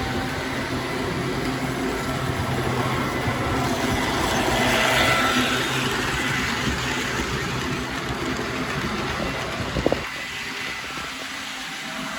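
Model train running along the layout track: a steady motor hum and wheel rumble that grows louder around five seconds in, with a single sharp click near the end.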